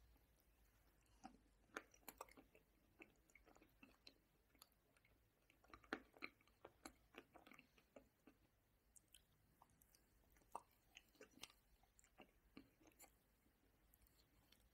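Close-miked mouth sounds of eating ice cream with nuts from a metal spoon: quiet wet chewing, lip smacks and short clicks coming in clusters, with an occasional light crunch.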